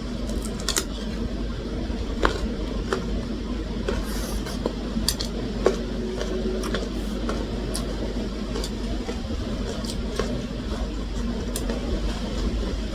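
Eating at a table: scattered sharp clicks of dishes and cutlery over a steady low background hum.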